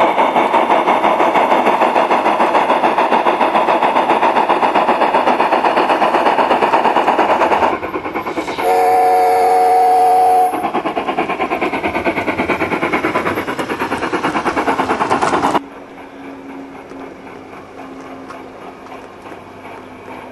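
Sound-card steam exhaust chuffs from a Gauge 1 Accucraft K27 Mudhen model locomotive, coming in a rapid, even beat. About eight seconds in, the chuffing drops and an American steam whistle sounds for about two seconds. The chuffing then resumes and cuts off suddenly about fifteen seconds in, leaving a faint steady hum.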